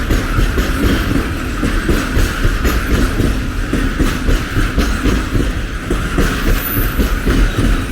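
A train running past at close range, its wheels clattering steadily over the rails.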